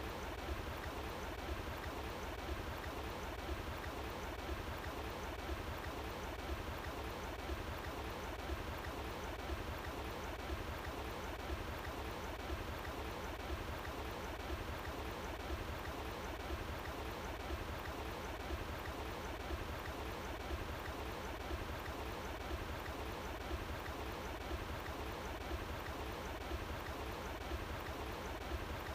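Running water flowing steadily and evenly, with a low rumble underneath.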